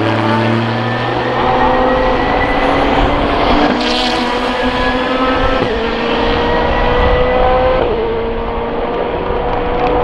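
SUPER GT racing cars accelerating hard onto the main straight, their engine note climbing steadily and dropping sharply at upshifts about five and a half and eight seconds in.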